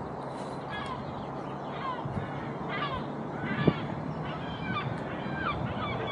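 A flock of birds calling, many short calls each falling in pitch, overlapping over one another from about a second in, over a steady low outdoor background.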